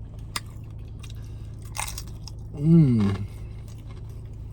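Tortilla chips of nachos being bitten and chewed close to the microphone, a run of crisp crunches. About halfway through comes a short falling vocal sound, the loudest moment.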